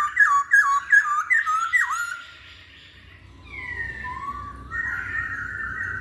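Masked laughingthrush (poksay Hongkong) singing: a quick run of about six repeated down-slurred notes in the first two seconds, then, after a brief pause, a longer warbling phrase of gliding notes.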